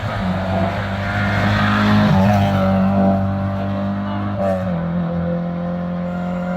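Race car engine held at high, steady revs, its pitch dropping once about two-thirds in as it passes.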